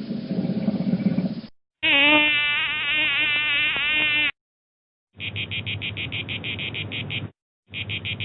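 A string of separate animal-call clips. The tail of a low, rough call stops about one and a half seconds in. A wavering pitched call of about two and a half seconds follows. Then come two runs of rapid insect-like chirping, about eight pulses a second, each lasting about two seconds.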